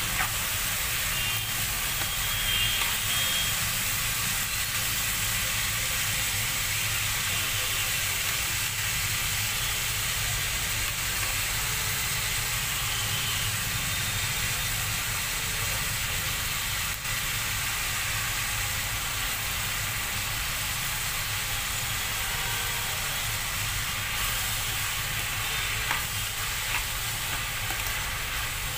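Sliced onions, tomatoes and green chillies sizzling steadily in hot mustard oil in a kadai while a spoon stirs them around the pan.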